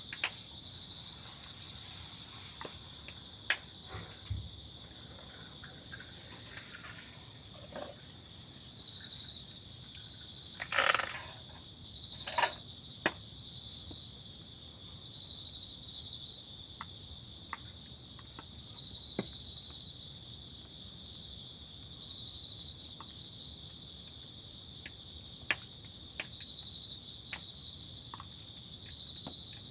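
Crickets trilling in a steady high chorus that swells in pulsing phrases about every two seconds. There are a few sharp clicks and a short rustle about eleven seconds in.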